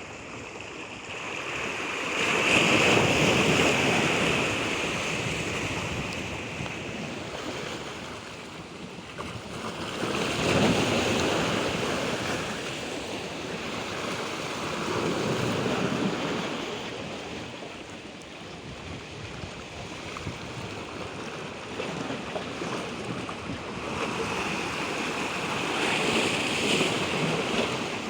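Sea waves breaking and washing in, the rush swelling and falling back every several seconds.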